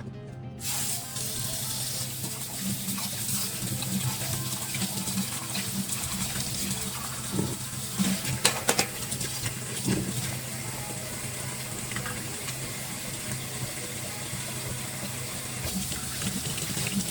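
Kitchen tap turned on, water running steadily into the sink during dishwashing, with a few clinks of dishes around the middle.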